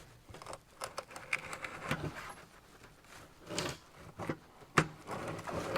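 Scattered light clicks, knocks and short scrapes of a truck seat base's metal seat tracks being handled and opened up.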